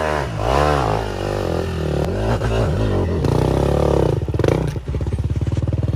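Dirt bike engine revving up and down several times, then running at low revs with a fast, even beat in the second half.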